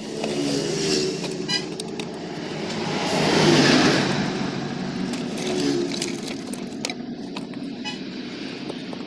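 A motor vehicle passing close by, its sound swelling to a peak about three and a half seconds in and then easing off.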